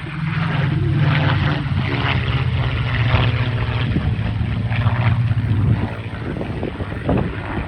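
Rolls-Royce V-12 piston engines of a Spitfire Mk 18 (Griffon) and a P-51D Mustang (Merlin) flying past in formation: a loud, steady propeller-engine drone that eases off after about six seconds.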